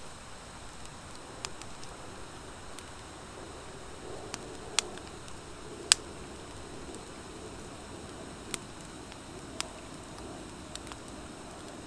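Wood fire of driftwood and dry hardwood logs burning, a steady soft hiss with scattered sharp pops and crackles, the loudest pop just before six seconds in. The pops come from the dry hardwood mixed in, since driftwood alone barely crackles.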